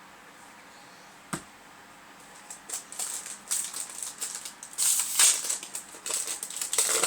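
Crinkling and rustling of a foil trading-card booster pack wrapper being handled, in irregular crackly bursts that start about two and a half seconds in, after a single click about a second in.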